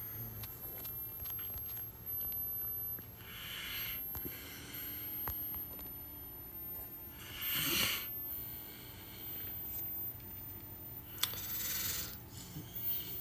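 Breathing through the nose close to the microphone: three short, hissy breaths spaced about four seconds apart, the middle one the loudest, with a few faint clicks and a low steady hum underneath.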